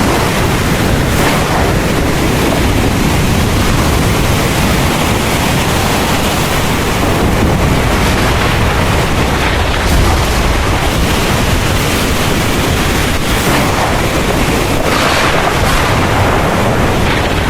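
Heavy rain falling steadily with a constant hiss, over a deep low rumble of thunder that swells slightly about ten seconds in.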